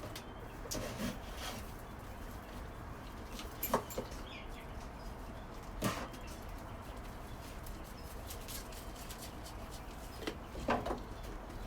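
A few short, sharp knocks and clinks at a goat milking stand as the goat's ankles are strapped in: single hits about 4 and 6 seconds in, and a small cluster near the end.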